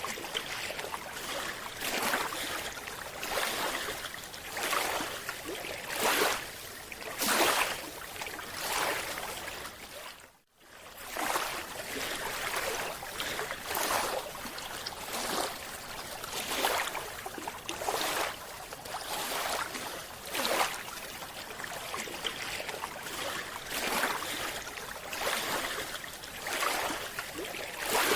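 Underwater recording of a scuba diver breathing: a steady hiss with recurring rushes of regulator breath and exhaled bubbles. About ten seconds in, the sound cuts out briefly and then resumes.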